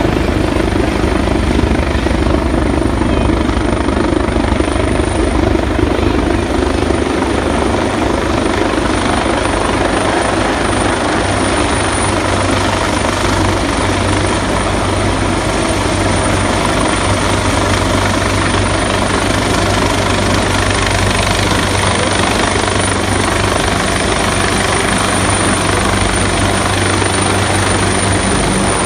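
Helicopter running close by, its rotor and turbine engine making a loud, steady noise with a low hum underneath.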